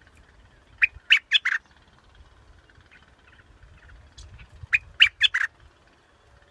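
Sooty-headed bulbul calling: two quick phrases of four short notes each, about four seconds apart.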